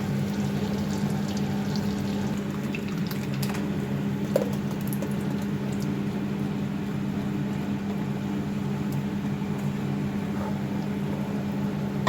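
Butter melting and sizzling gently in a kadai over a steady low hum, with a few faint ticks.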